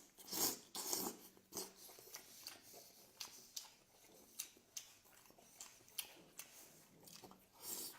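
Close-miked chewing of beef omasum tripe: irregular crisp crunches and wet mouth clicks, louder in the first couple of seconds and fainter after.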